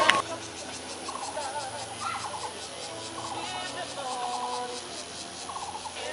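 A series of short, rapidly pulsed trilling animal calls, repeated about every second, over a faint steady background.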